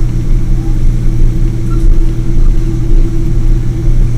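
Boeing 777 jet engines running, a loud steady low drone with a constant hum and no change in pitch.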